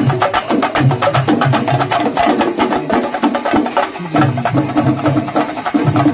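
Kerala temple percussion ensemble (chenda melam): many chenda drums played fast with sticks, in dense, rapid strokes.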